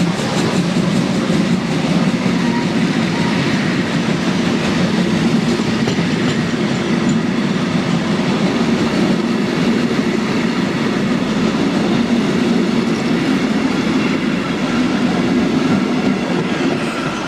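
Steam-hauled train rolling past: a steady, loud rumble of wheels clattering over the rail joints, easing off slightly near the end.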